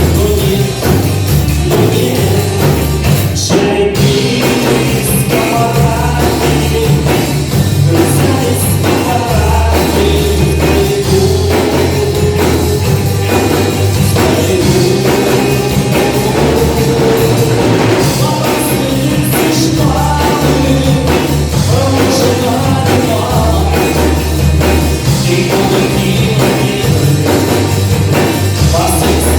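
A rock band playing live, with a drum kit and a bass line moving between notes.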